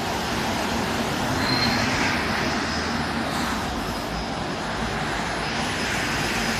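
City bus arriving at the stop: a steady rushing noise of its drive and tyres, with a faint brief high tone about three seconds in.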